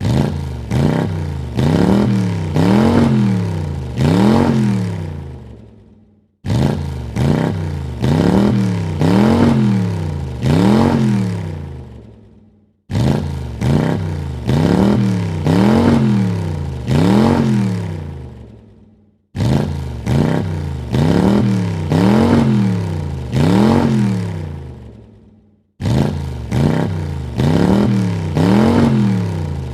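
Car engine revved in a quick series of blips, the pitch rising and falling about five times before it fades out. The same short revving clip repeats about every six and a half seconds, five times over.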